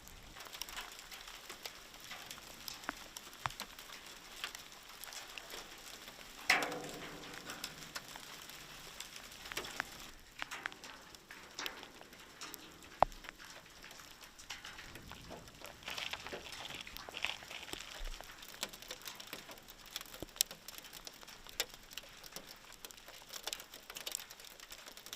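Volcanic lapilli from Etna pattering down: many small irregular ticks and clicks of falling stones and grit striking surfaces. A louder knock comes about six and a half seconds in.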